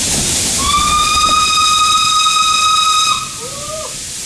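Steam locomotive whistle blown once: a single held note of about two and a half seconds, starting about half a second in and tailing off with a brief falling note, over the hiss of steam and the running train.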